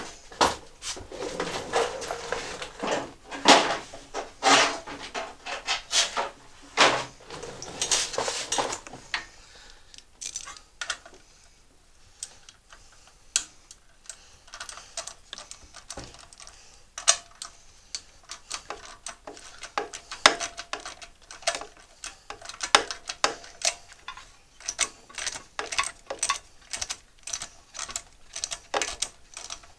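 Metal hand tools clinking and clicking against a small engine as its ignition coil is unbolted and removed: louder clattering for the first several seconds, a quieter spell, then a quick string of sharp clicks through the second half.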